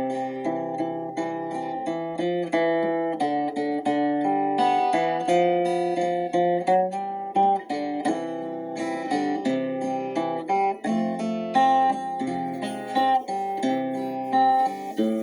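Instrumental acoustic guitar playing a slow, calm worship melody in steadily flowing plucked notes over a low bass line.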